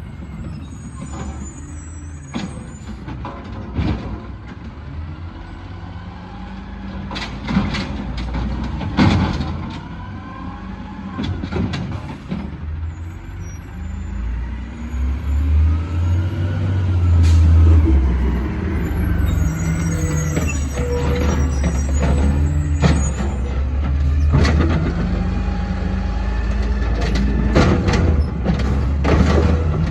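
Garbage truck engine running and revving up and down while working, with scattered knocks and clanks and air-brake hiss.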